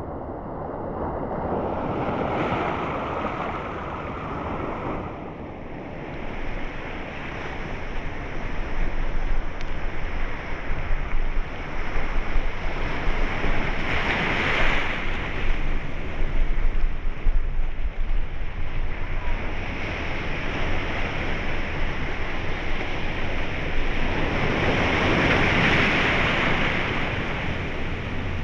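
Ocean water surging and washing as waves come through. The rush rises and falls in slow swells about ten seconds apart, over a constant low rumble.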